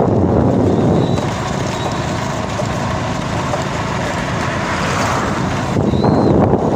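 Motorbike engine running steadily while riding, with heavy wind noise buffeting the microphone.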